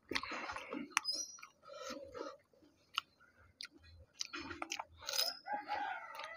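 A person biting and chewing fuchka (panipuri), the hollow fried puri shells filled with spiced water. The shells crunch and crackle in irregular clicks as they are chewed.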